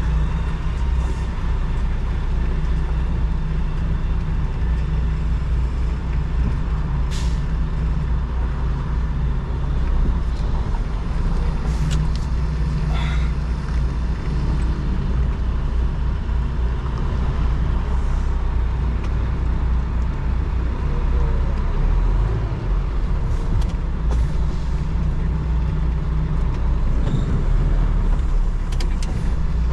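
Semi truck's diesel engine running steadily at low speed, with a few short hisses or clicks scattered through.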